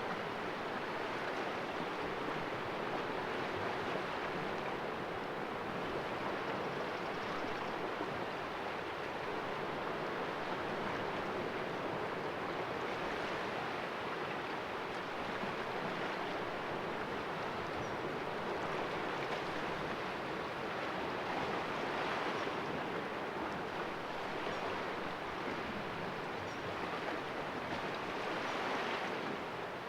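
Sea waves washing and splashing against the rocks of a small cove: a steady wash of surf with a couple of louder surges, one past the middle and one near the end.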